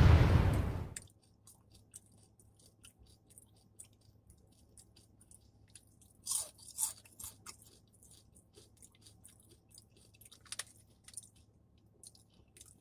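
Chewing and crunching of crispy fried chicken skin chips, with louder crunches about six to seven seconds in and again around ten to eleven seconds. It opens on the tail of a loud burst that dies away within the first second.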